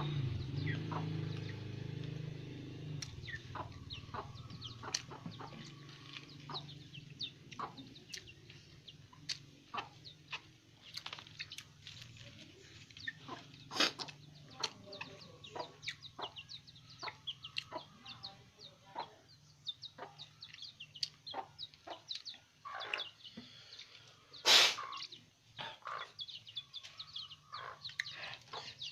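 Chickens clucking, mixed with many short sharp clicks, the loudest about halfway through and again near the end. A motor vehicle fades out in the first few seconds.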